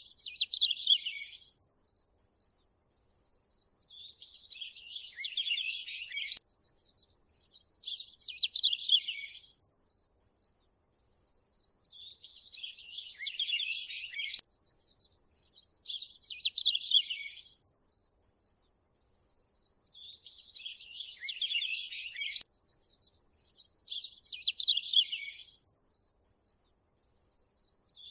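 Nature ambience of birds chirping in short phrases that recur about every four seconds, over a steady high insect-like hiss.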